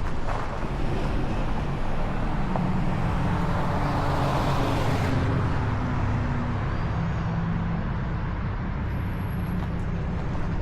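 Car driving: steady engine and road rumble, with a swell of rushing noise around four to five seconds in.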